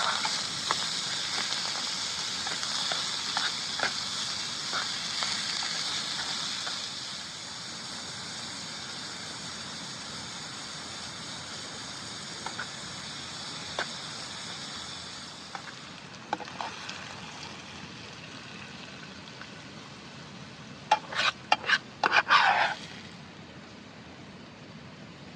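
Food sizzling as it fries, a steady hiss that is strongest at first and dies down about halfway through, with scattered small crackles. A short clatter of knocks comes near the end.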